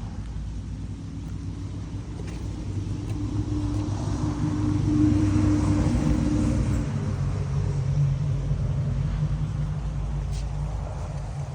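Engine of a passing vehicle: a low hum that grows louder to a peak about halfway through, then drops in pitch and fades away.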